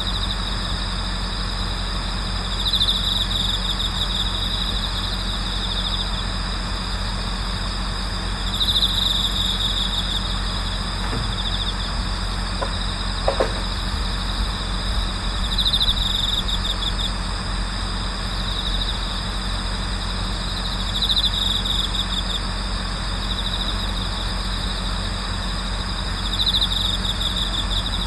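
Night chorus of autumn crickets, a steady high trilling, with a louder trill swelling for a second or two about every five to six seconds. A low steady hum runs underneath, and there is one faint click about halfway through.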